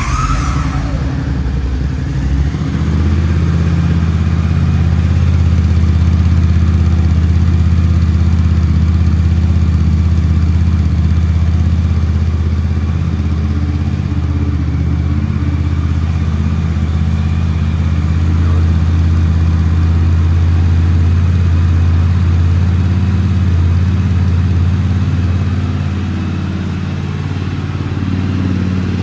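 Honda CX500 Turbo's turbocharged V-twin running steadily just after a cold start. Its running level rises a little a couple of seconds in and eases slightly near the end.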